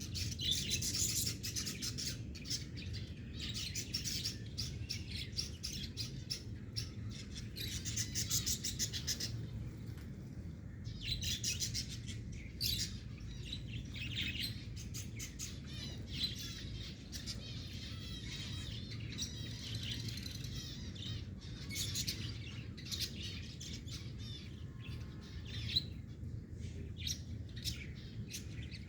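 A group of pet birds chirping and chattering continuously in many overlapping calls, with louder flurries now and then, over a steady low hum.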